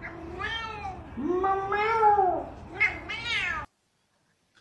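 A cat meowing several times, with one long drawn-out meow in the middle and shorter ones after it. The sound cuts off suddenly near the end.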